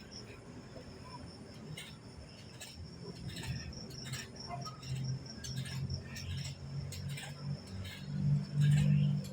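Crickets chirping steadily, with scattered short clicks and a low hum that builds and is loudest near the end.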